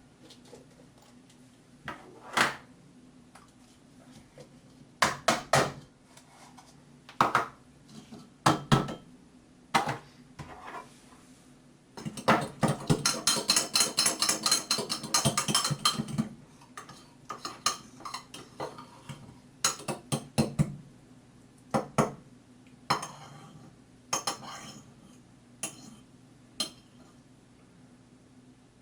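A utensil knocking and clinking against a mug while a thick batter is mixed in it: scattered taps, then about twelve seconds in a few seconds of fast, continuous clattering from vigorous stirring, then sparser taps again.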